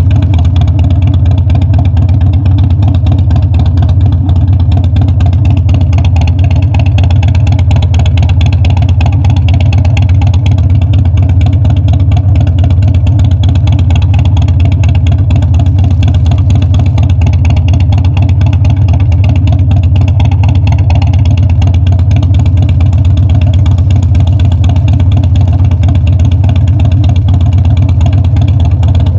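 Harley-Davidson Dyna V-twin motorcycle engine and exhaust running loud and steady, holding an even pitch.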